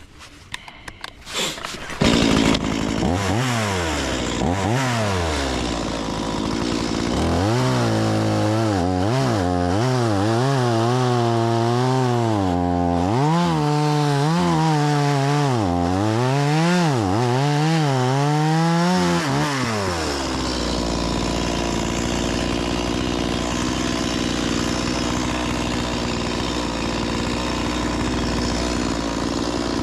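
Stihl MS 180 C-BE two-stroke chainsaw catching about two seconds in and revving up and down over and over, then running at a steady pitch for the last third.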